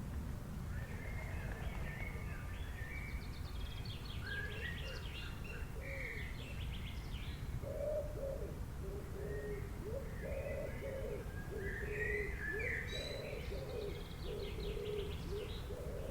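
Several birds chirping and trilling in quick high notes, joined about halfway through by a lower call repeated over and over, with a steady low rumble underneath.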